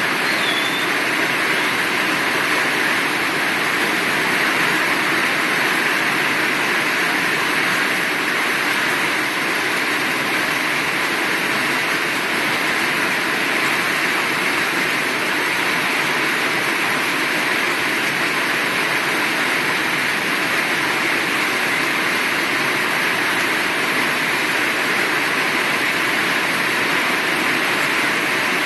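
Heavy rain falling steadily, a dense even hiss with no breaks or swells.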